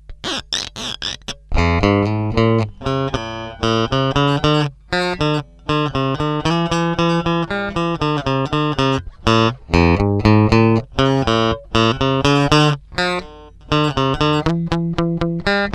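Fender Stratocaster electric guitar played through an amplifier: a continuous run of single picked notes and short melodic phrases, with brief gaps between phrases.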